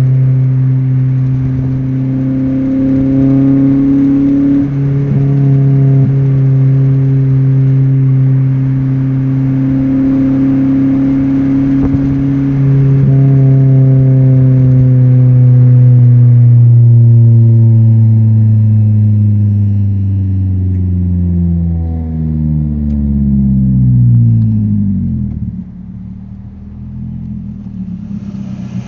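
2014 Nissan Sentra's four-cylinder engine breathing through aftermarket headers, exhaust and an HKS muffler, droning steadily under load and climbing slightly in pitch. After about 17 seconds the pitch falls smoothly for several seconds as the car slows, and the sound goes quieter near the end.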